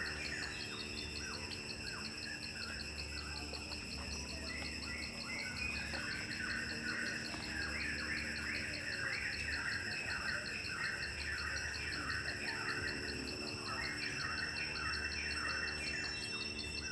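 Insects trilling steadily in a fast pulsing chorus, with birds chirping repeatedly over them.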